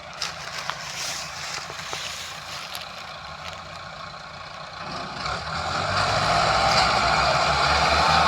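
Massey Ferguson 385 tractor's diesel engine, faint at first with a few light knocks, then growing louder about five seconds in and running loud and steady.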